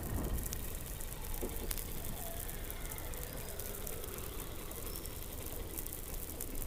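Underwater sound from below the Antarctic ice: a steady low rumble with several faint falling whistles, short high chirps and a sharp click about a second and a half in.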